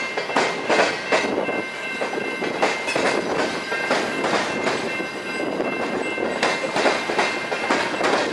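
Freight train cars rolling past, their wheels clacking over rail joints in an uneven rhythm, with a faint steady high-pitched whine underneath.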